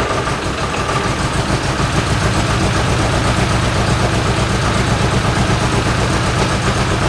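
1973 MG Midget's 1275 cc four-cylinder A-series engine running steadily, with a rapid even beat in its low end.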